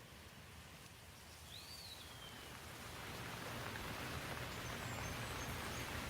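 Steady rain hiss that swells louder from about two seconds in, then holds. A single bird's whistled call, rising and then falling, sounds about one and a half seconds in.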